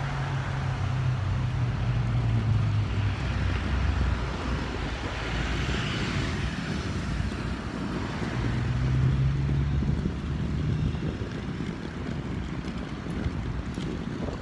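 Motor vehicle traffic going by, with a low engine hum that swells twice, over a steady rush of road noise.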